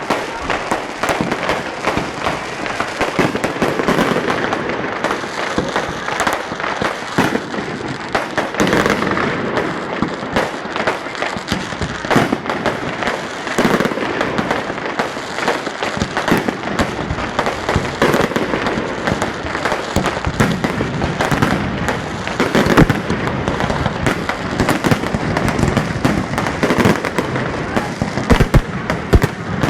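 Fireworks display going off continuously: a rapid, dense barrage of bangs and crackling with no pause, with louder single bangs near the end.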